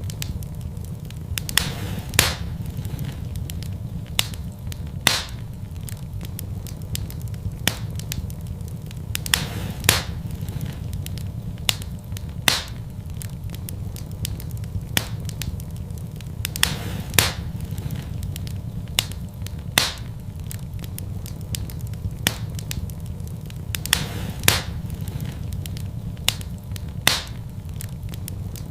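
Wood fire burning in a fireplace, crackling and popping irregularly over a steady low rumble, with a sharper pop every few seconds.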